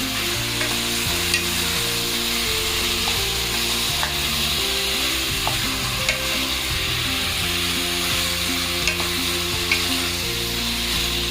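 Raw chicken pieces sizzling in hot oil with onion, ginger and garlic in a pan, stirred lightly, with a steady hiss and a few faint clicks of the spatula against the pan.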